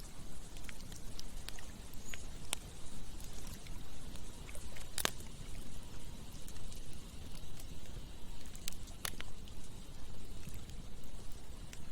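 Campfire crackling, with a scattering of sharp pops, the loudest about five seconds in, over the steady rush of running water from a river.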